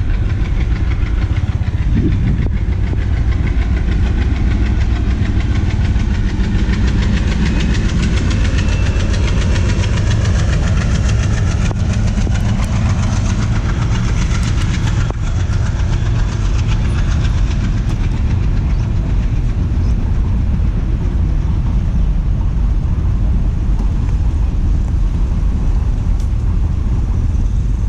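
Train running at speed on the line, a steady loud rumble of engine and wheels that holds level throughout.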